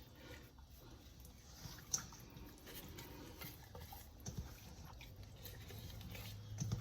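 Faint wet handling of a seasoned raw whole chicken in its marinade, with a few small knocks. A low hum comes in near the end.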